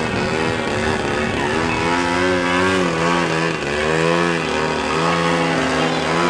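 Engines of two radio-controlled aerobatic airplanes running together, their two pitches rising and falling as the throttles open and close through hovering and manoeuvres.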